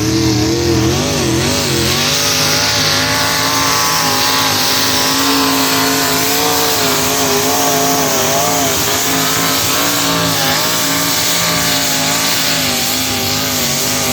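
Engine of a competition pulling vehicle running hard at high revs under load, its pitch wavering up and down over a steady loud roar.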